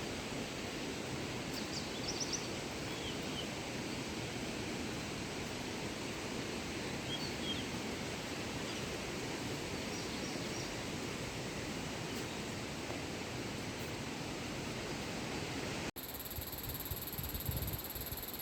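Steady rushing of water, as of a mountain stream, with a few faint high bird chirps above it. The sound breaks off abruptly near the end.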